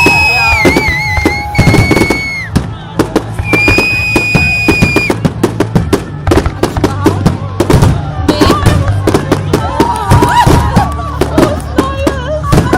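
Fireworks going off in rapid succession: dense bangs and crackling, with two long shrill whistles from whistling fireworks in the first few seconds.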